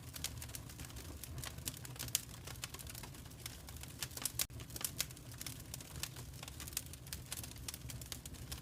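Wood fire crackling in a fireplace: a dense, irregular run of small pops and snaps over a steady low rumble, with a brief dropout about four and a half seconds in.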